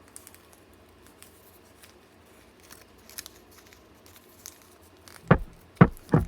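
Faint paper rustling with small clicks and snips, as of paper being handled and cut. About five seconds in, plucked guitar music starts with strong, evenly spaced notes.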